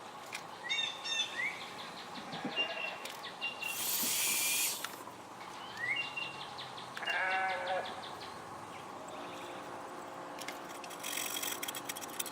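Animal calls: a series of short chirps, then a longer, lower call about seven seconds in. A few light clicks and a brief hiss can be heard alongside them.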